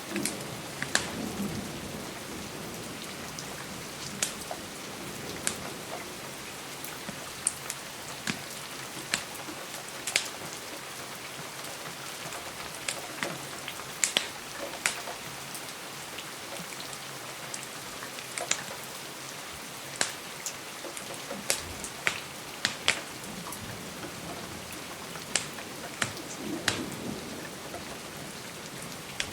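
Steady rain with irregular sharp crackles and pops of a wood fire. Low, soft rumbles of thunder come at the start and again near the end.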